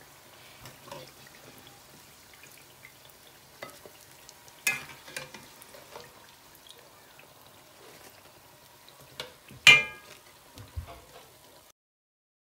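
Samosas frying in hot oil with a low sizzle, while a metal ladle scrapes and knocks against the enamelled pot as they are lifted out. The loudest knock comes near the end, and the sound cuts off shortly after.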